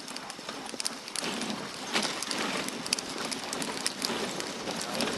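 Dog sled moving over a snowy trail: a steady hiss and crunch of the runners on snow, with many small sharp ticks and patters throughout.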